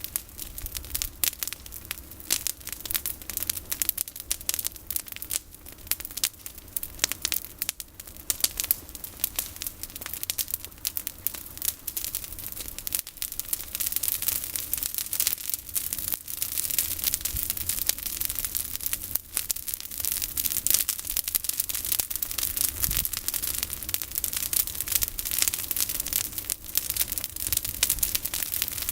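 Campfire of olive branches crackling: a steady, dense run of sharp snaps and pops, getting busier about halfway through.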